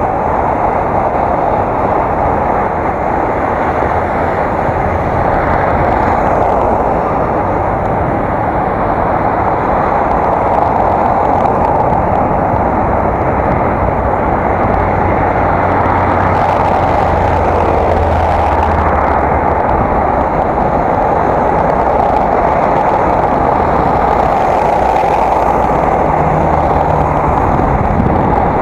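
Steady rushing noise of wind and rolling bicycle on an action camera's microphone while riding, with a low rumble, likely traffic, swelling through the middle.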